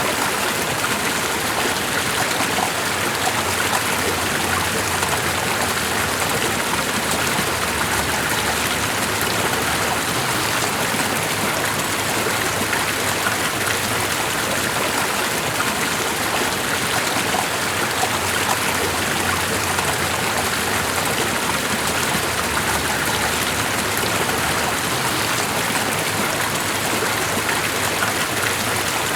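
Steady rushing of running water, even and unchanging.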